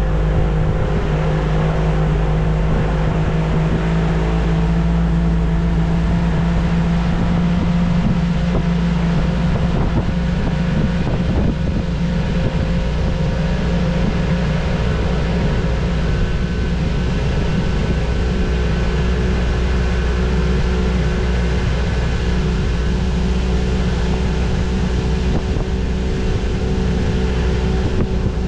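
Boat motor running at a steady, constant speed as the boat cruises under way, with a steady rush of wind and water noise over it.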